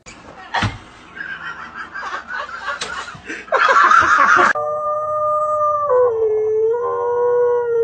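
A dog howling: about three and a half seconds of wavering, uneven vocalizing with a louder outburst, then one long, steady howl from about halfway through that dips slightly in pitch.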